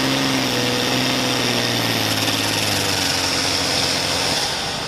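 Pulling tractor's engine running loud and steady, its note fading out about four seconds in, over a high hiss.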